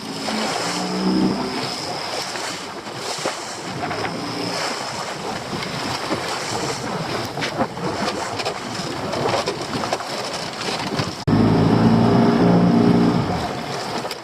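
Small fishing boat's engine running amid wind and sea noise. The engine comes up louder after a sudden cut near the end.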